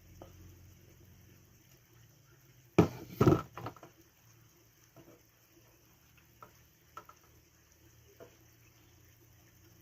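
Cooking gear being handled: two loud knocks close together about three seconds in, then a few light clicks and taps over a faint steady background.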